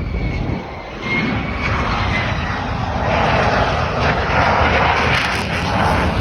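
Lockheed Martin F-35A jet on approach to land, its engine noise swelling from about a second in and staying loud as it comes close, with a faint high whine early on.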